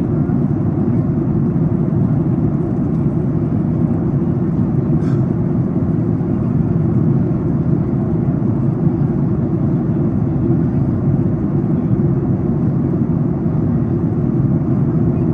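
Steady cabin noise inside a Boeing 737 MAX 8 airliner descending: a constant low rumble of airflow and engines with no change in pitch or level.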